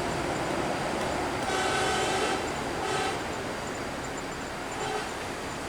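A vehicle horn sounds a long blast, then a short one, then a faint brief third, over steady vehicle and road noise.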